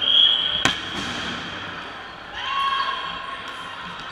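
Dodgeball play on a gym floor: sharp smacks of dodgeballs hitting, about two-thirds of a second and a second in. There are high-pitched squeals at the start and again around the middle, with shouting in the hall.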